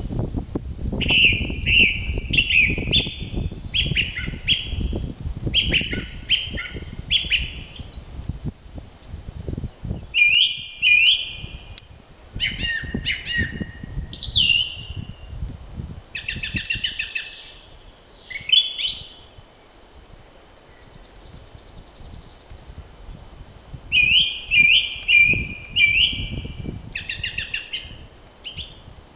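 Spring birdsong: several songbirds singing short, repeated chirping phrases that overlap and trade off. Wind gusts rumble low underneath, strongest in the first third and again near the end.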